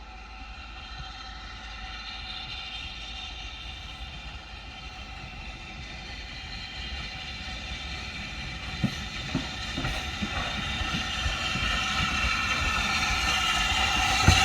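A train running into the station, growing steadily louder as it nears, with a steady high whine and the clicks of wheels over rail joints from about nine seconds in.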